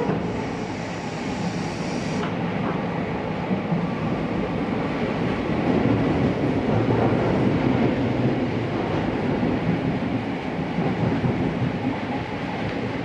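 Running noise of an Odakyu 8000 series electric train from inside the car, wheels on rail rumbling steadily at speed. A faint high hiss fades out about two seconds in.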